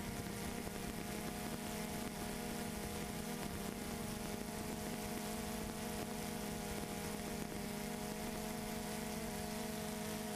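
Camera drone's motors and propellers humming steadily, a hum of several held tones with no change in pitch.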